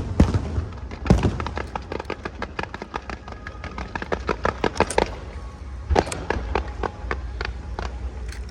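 Aerial fireworks going off: a dense run of sharp crackling pops, several a second, with louder bangs about a second in and near six seconds, over a low rumble.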